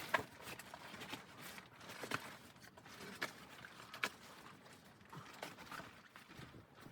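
Footsteps in snow: slow, uneven crunches about once a second.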